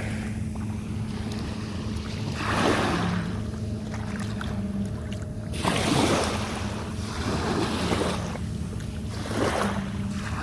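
Small waves washing onto the shore, one swell every two to three seconds, over a steady low hum.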